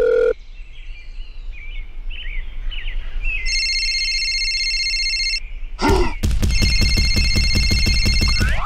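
Telephone sound effects. A steady dial tone cuts off just after the start. Faint chirps follow, then a steady high electronic tone for about two seconds. From about six seconds in, a rapid trilling electronic ring runs on.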